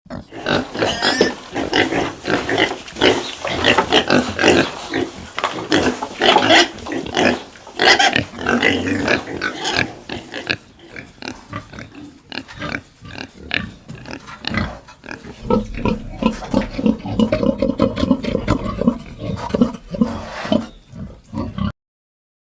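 Domestic pigs calling over and over: harsh, high-reaching calls for the first half, giving way to lower, quick grunting in the second half, which stops abruptly near the end.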